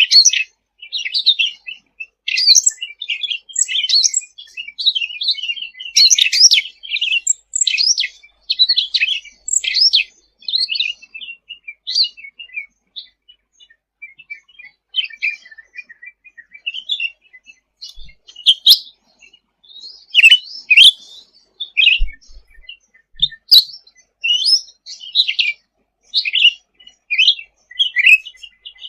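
Cucak ranting songbird in full song, a busy stream of quick, high-pitched chirps and trills that thins out for a few seconds near the middle and then picks up again.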